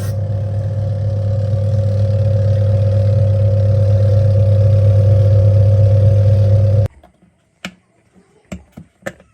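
An electric workshop machine running with a steady, loud hum for about seven seconds, then cutting off suddenly. A few light clicks and knocks follow.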